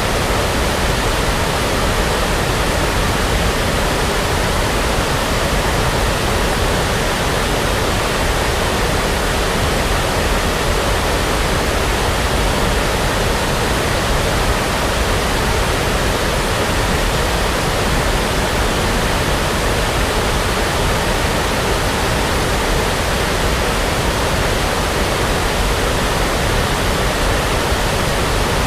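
Steady synthetic brown noise: an even, unchanging rushing hiss with no breaks or variation.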